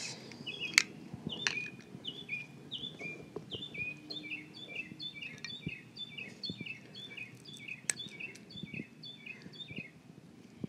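A bird singing outside: a long series of quick, evenly repeated short phrases, each dropping in pitch, with a few sharp clicks mixed in.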